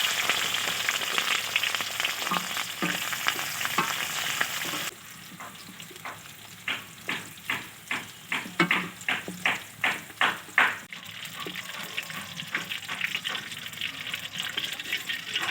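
Capsicum frying in hot oil in a kadai, a dense sizzle that drops off suddenly about a third of the way in. A spatula then stirs and scrapes the pan in a run of sharp strokes about two a second, and a softer sizzle goes on to the end.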